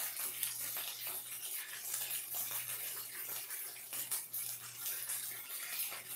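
Rice patties sizzling and crackling as they fry in a stainless steel skillet, steady throughout. Under it a low steady hum drops out briefly about every two seconds.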